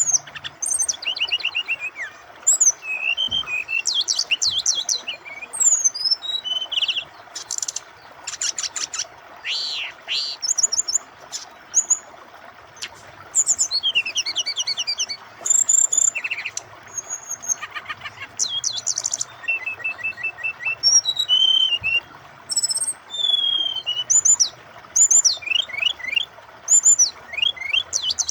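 Brown-chested jungle flycatcher (SRDC) singing a busy, varied song of quick whistles, trills and chirps in short phrases with brief pauses between them. Steady flowing water runs underneath.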